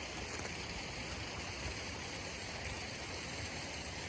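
Stream water rushing steadily with an even, unbroken sound.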